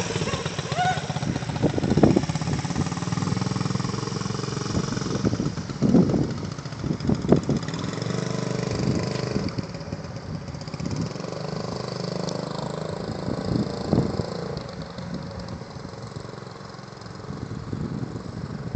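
Honda CT90 trail bike's small single-cylinder four-stroke engine running at low revs as the novice rider practises starting and stopping. It gets quieter in the last few seconds.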